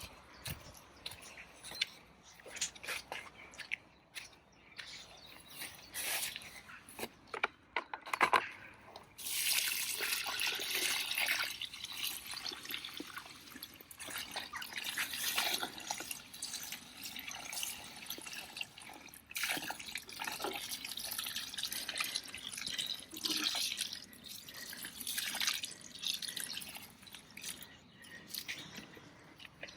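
Water for watering garden plants. At first there are scattered drips and splashes, then from about nine seconds in a steady stream of water hisses onto the plants and soil.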